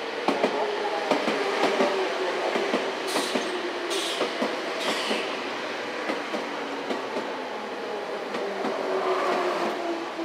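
Electric commuter train running through the station platform, its wheels clicking over the rail joints while the motor whine falls slowly in pitch as it slows. There are three short hisses about three to five seconds in.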